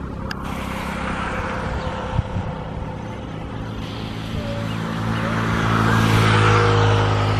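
A motor vehicle's engine running close by, growing steadily louder to a peak about six to seven seconds in.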